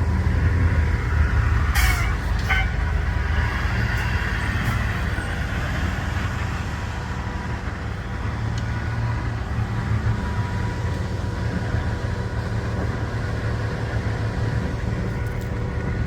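Heavy truck engine running steadily with a low rumble, with two short sharp hisses about two seconds in.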